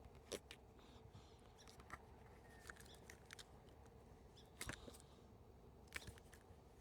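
Near silence with a few faint, scattered clicks and light taps from hands handling a plastic rain guard and peeling its 3M adhesive tape backing.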